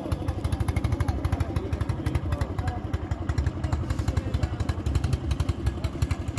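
Motorboat engine running steadily at constant speed, a fast even chugging with a strong low rumble.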